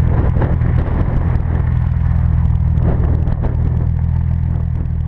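Nissan 300ZX (Z32) V6 engines running at low speed with a steady low rumble, as the cars roll slowly over gravel with the crackle and crunch of tyres on loose stones.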